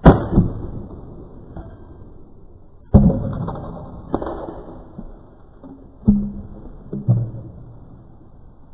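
Axe splitting firewood rounds: a run of sharp wooden impacts, about five in all, the loudest at the start and about three seconds in, each dying away quickly, with lighter knocks of split pieces between.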